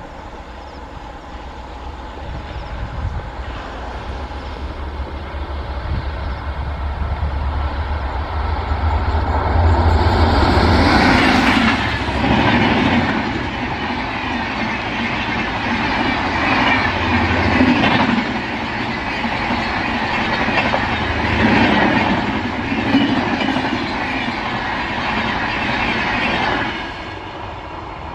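Passenger train passing at speed: a low rumble builds as it approaches, then about ten seconds in the coaches sweep past with a loud, rhythmic clatter of wheels on the rails, repeating every second or two, until the noise drops off abruptly near the end as the last coach goes by.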